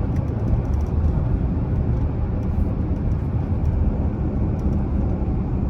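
Dodge Charger V6 driving along: steady engine and road rumble heard from inside the car, low and even, with no change in pace.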